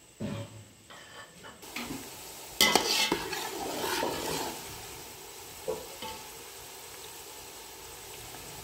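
Sliced bitter gourd (karela) deep-frying in hot oil in a steel pot, a steady sizzle that sets in a couple of seconds in. A metal spoon stirs and scrapes in the pot for about two seconds, the loudest part, before the sizzle carries on alone.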